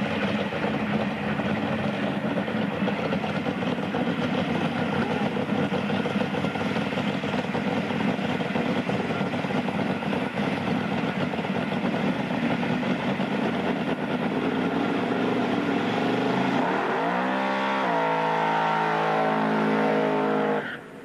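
1955 Chevrolet drag car's engine running hard through a burnout, the rear tyres spinning on the asphalt. About two-thirds of the way in the revs climb sharply and hold high, then drop off suddenly near the end.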